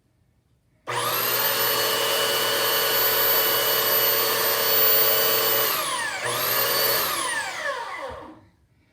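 Electric belt sander switched on and running steadily for about five seconds, then released and winding down, triggered again briefly, and winding down to a stop. It is a test run with a sock fitted over its dust port as a makeshift dust bag.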